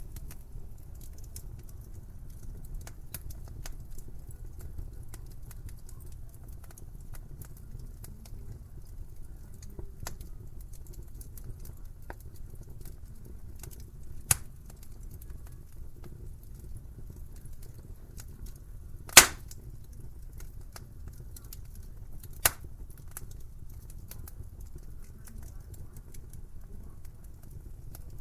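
Wood fire in a fireplace crackling: a low steady rumble under scattered small clicks, with three sharper pops in the second half, the loudest about two thirds of the way through.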